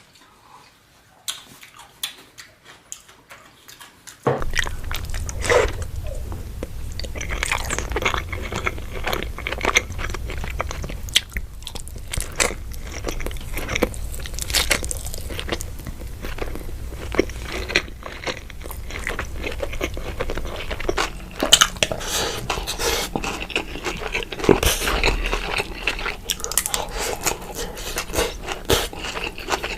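Close-miked eating: biting, crunching and chewing, sparse and faint for the first few seconds, then loud and continuous with a low hum underneath from about four seconds in.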